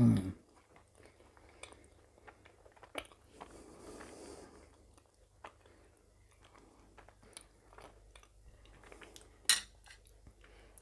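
A person chewing a mouthful of apple pie with pastry, quietly, with faint small mouth clicks. A brief voiced sound right at the start and a single sharp tap near the end.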